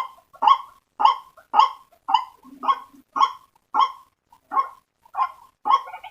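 White-breasted waterhen (ruak-ruak) lure call: a regular series of short, loud calls, about two a second.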